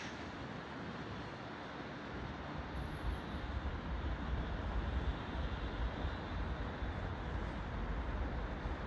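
Low, uneven rumble of a train moving through a railway station, growing stronger a couple of seconds in, over a steady wash of station noise.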